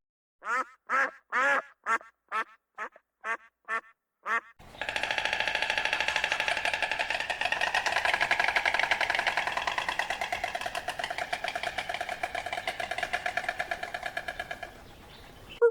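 Duck quacking, first in a run of separate calls about two a second. It then changes suddenly to a long unbroken stretch of fast, rapid-fire calling that fades just before the end.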